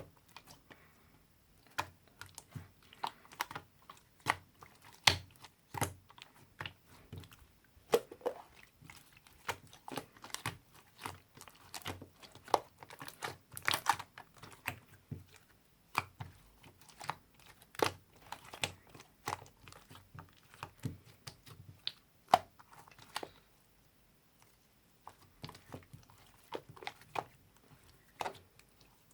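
Close-up handling noise: irregular crinkles, taps and clicks of objects being moved and pressed, with a brief lull about three-quarters of the way through.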